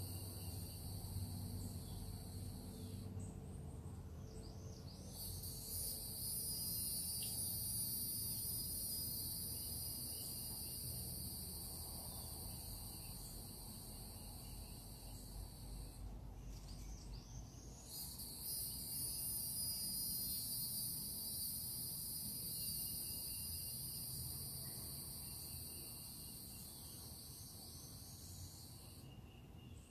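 Steady high-pitched insect trilling, which stops briefly twice and starts again, over a low background rumble.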